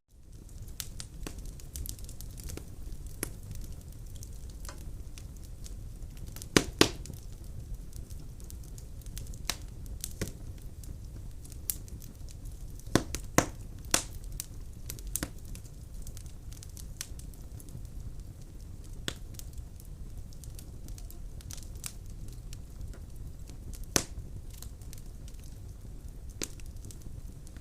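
Firewood burning in a fireplace, crackling with irregular sharp pops over a low, steady rumble. The loudest pops come as a pair about six and a half seconds in, a cluster around thirteen to fourteen seconds, and a single one near the end.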